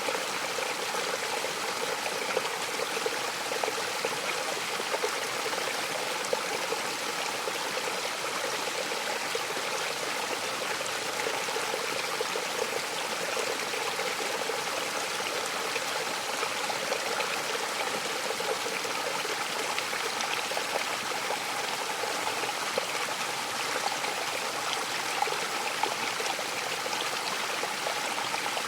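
Mountain waterfall: water rushing and splashing in a steady, unbroken wash, with small splashes standing out now and then.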